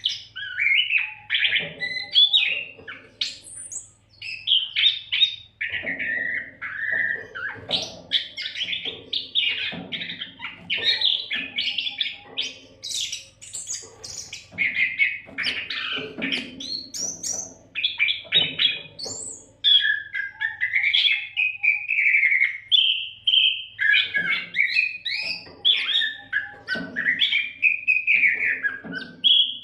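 Oriental magpie-robin (kacer) in full song without pause: a fast, varied stream of whistles, trills and harsher chattering notes, phrase after phrase.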